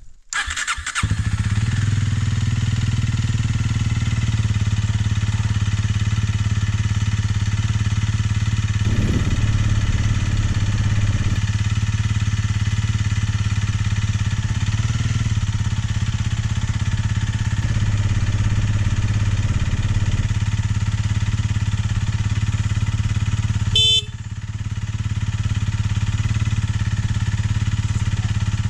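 Honda CRF300L Rally's single-cylinder engine starting about a second in, then running steadily with a short rev near nine seconds. There is a brief break near the end, after which it runs a little quieter.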